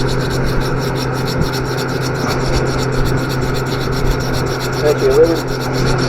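Sanding cloth scrubbed back and forth over tarnished copper pipe in quick, even strokes, cleaning the copper so the solder will stick and flow before brazing.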